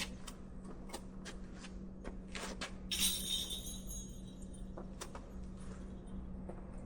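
Scattered light knocks and clicks of an electric trike being handled and turned around in a pickup truck bed, with a harsher rattling noise lasting about a second about three seconds in, over a steady low hum.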